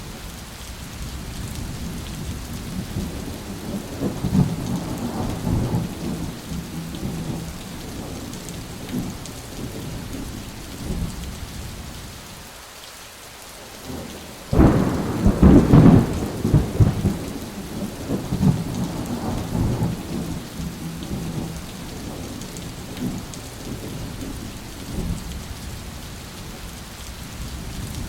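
Steady rain falling, with thunder rumbling low. About halfway through, a sudden loud thunderclap breaks in and rolls on for a couple of seconds before settling back into the rain.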